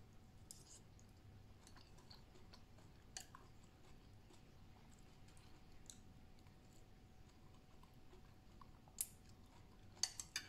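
A person chewing a mouthful of food, with small soft mouth clicks. Near the end a metal spoon clinks sharply against a ceramic bowl a few times.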